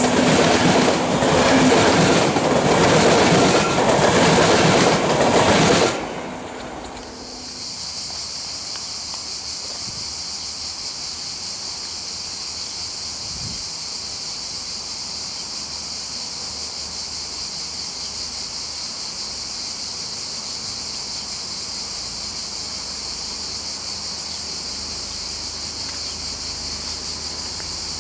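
Passenger coaches rolling past at close range, their wheels clattering over rail joints; the train noise cuts off abruptly about six seconds in. After that, a steady high-pitched chorus of cicadas.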